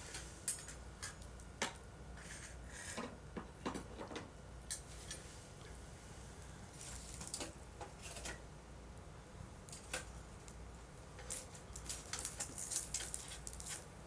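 Wood campfire crackling, with irregular pops and snaps from the burning wood and a denser run of crackles near the end.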